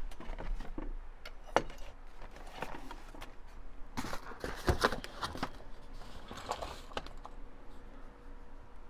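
Small clicks, taps and rustling of craft supplies being handled on a work table, busiest about four to five seconds in.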